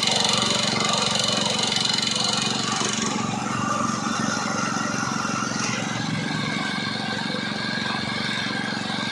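Honda GX160 single-cylinder four-stroke petrol engine running steadily on a concrete vibrator during its break-in run.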